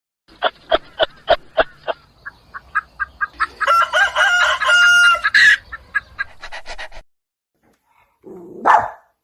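Chickens clucking in a quick series, then a rooster crowing once for about two seconds, then more clucks that stop about seven seconds in. Near the end, one short, loud animal call.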